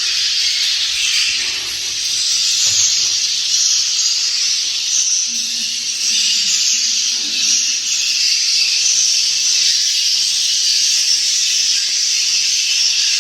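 Dense, steady high-pitched chirping of swiftlet calls filling the bird house.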